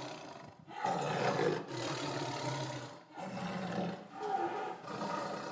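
A large wild animal roaring: several calls broken by short pauses.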